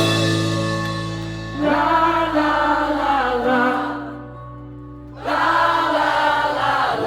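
Live band music: a sustained chord under several voices singing together in two long held phrases, with a brief quieter lull between them.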